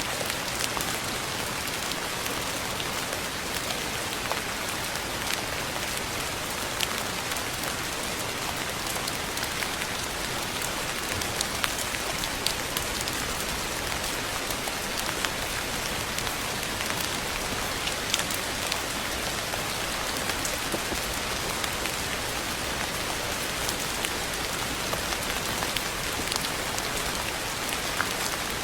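Steady rain falling on a surface, an even hiss with scattered individual drops ticking sharply.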